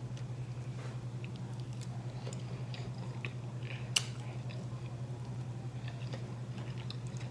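A person chewing a mouthful of fried chicken, with small wet mouth clicks over a steady low hum. One sharp click about four seconds in.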